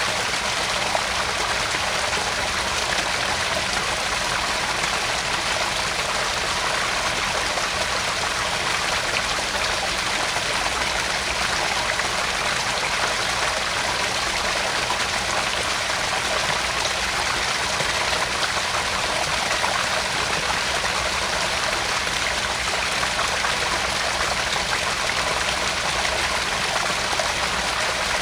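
Small garden-pond waterfall: water spilling and splashing steadily into the pond, a continuous trickling splash without change.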